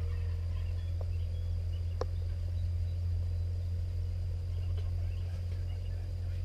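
Quiet field ambience: a steady low hum under faint, scattered bird chirps and a thin steady high tone, with two light clicks about a second apart.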